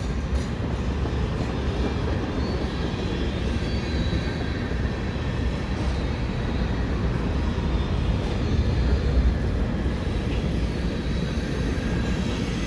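Freight cars rolling past at trackside, covered hoppers and then tank cars: a steady low rumble of steel wheels running on the rails.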